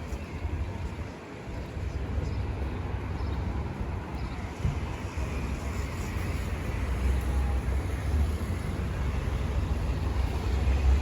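Street traffic: a steady low rumble of passing vehicles that grows louder toward the end.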